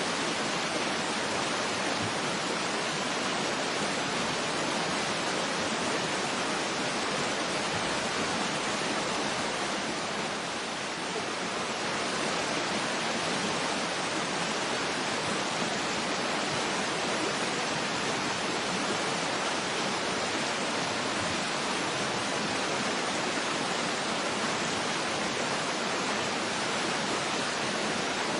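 Waterfall rushing steadily: an even, unbroken roar of falling water, dipping slightly about ten seconds in.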